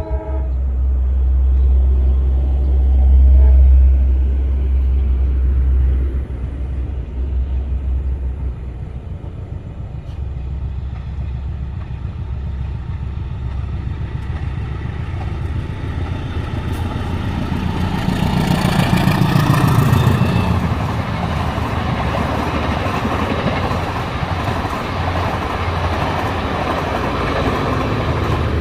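A train running past on the railway line, a heavy low rumble at first, then its wheel and rail noise building to a peak around twenty seconds in and continuing after.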